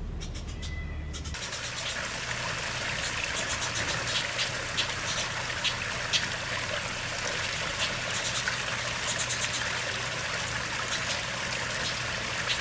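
Water trickling steadily with a hiss, and many short, high bird chirps over it, some in quick runs. It all starts abruptly about a second in.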